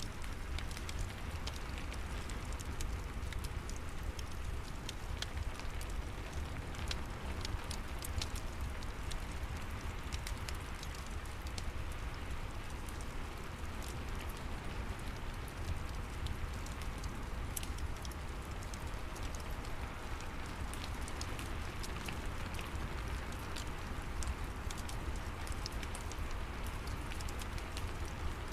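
Steady rain with a low rumble, over the crackle of a wood fire in a fireplace: many small, sharp pops scattered irregularly throughout.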